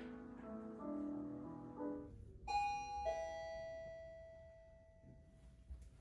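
Soft piano background music that stops about two seconds in, followed by a two-note ding-dong chime, high then lower, each note ringing out slowly.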